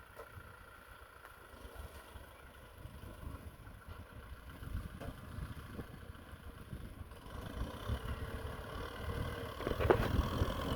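Kubota M6040SU tractor's diesel engine running, growing steadily louder toward the end as it comes closer, with wind rumbling on the microphone.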